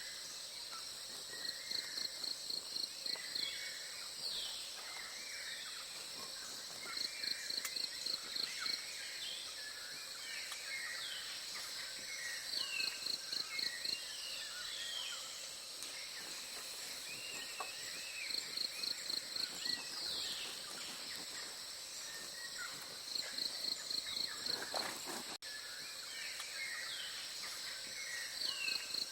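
Tropical forest ambience: many birds chirping and calling over a steady high insect drone, with a rapid series of about seven high pulsed notes repeating every five seconds or so.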